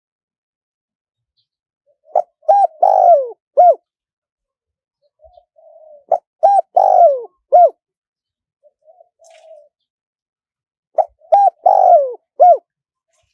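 Spotted dove cooing in three phrases about four seconds apart. Each phrase is a few short coos with a longer note that falls in pitch, and softer low coos come between the phrases.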